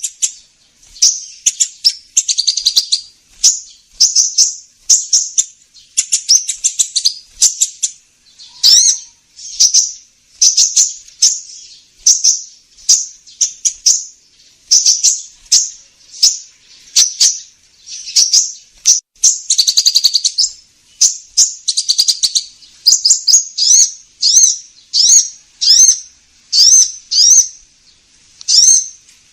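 Recorded sunbird calls ('kolibri ninja') played as a trapping lure: bursts of rapid, high-pitched chirps, about one burst a second, some with a quick downward sweep.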